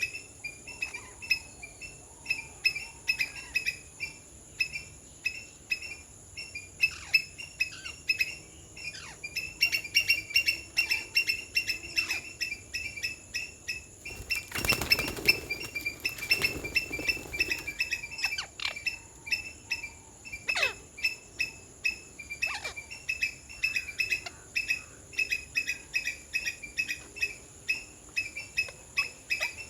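Rapid, high chirps repeated a few times a second over a steady, high-pitched insect drone. About halfway through comes a brief burst of wing flapping.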